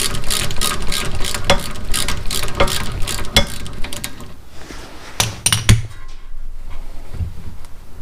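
Ratchet clicking rapidly as a 17 mm bolt on a rear brake caliper is worked loose, with a few louder metal knocks about five seconds in, then quieter.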